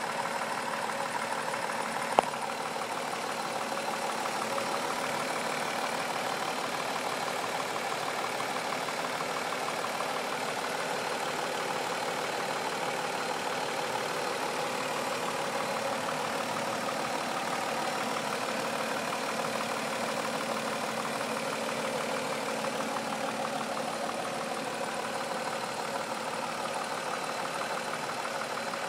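2004 Mazda 6's 3.0L V6 idling rough with a low knocking sound whose cause the owner doesn't know. A single sharp click about two seconds in.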